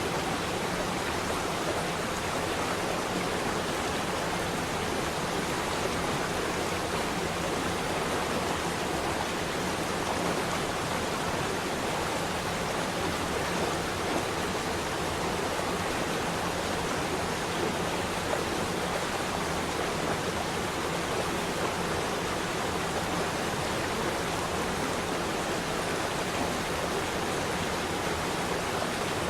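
Flowing water, running steadily and evenly without change.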